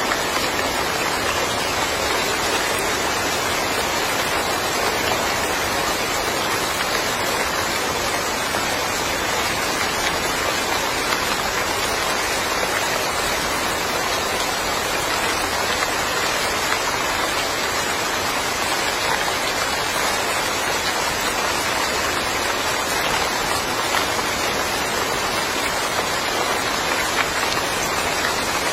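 Steady rainfall, a dense even hiss of drops with fine pattering, without let-up.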